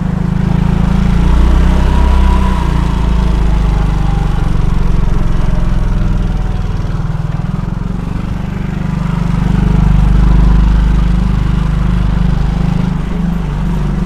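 Steady low rumble of a moving vehicle's engine and wind on an action camera's microphone, swelling a little around two seconds in and again near ten seconds.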